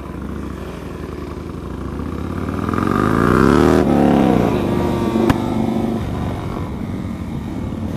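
Motorcycle engine accelerating: its pitch climbs for a couple of seconds, drops suddenly at a gear change, then runs on steadily. A single sharp click about five seconds in.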